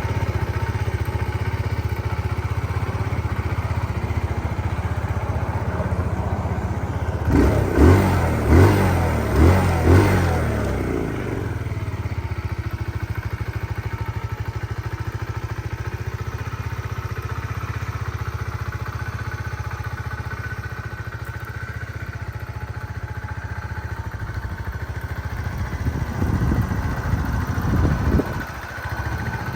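2022 Kawasaki Z125's single-cylinder four-stroke engine idling steadily, blipped four times in quick succession about eight seconds in, then revved a few more times near the end.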